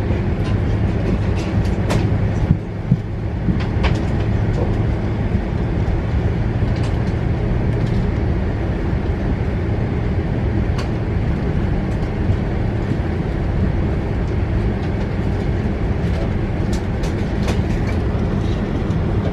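Steady low rumble of a moving vehicle heard from inside, with scattered clicks and knocks.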